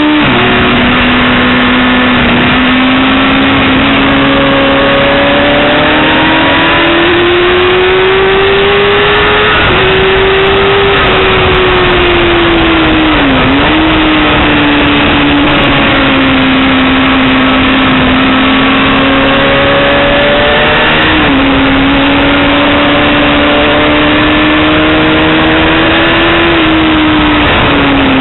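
Yamaha YZF-R6 (5EB) 600 cc inline-four sport bike engine pulling hard on track over a steady rush of noise. Its pitch climbs slowly and then falls, with several sudden steps as gears are changed.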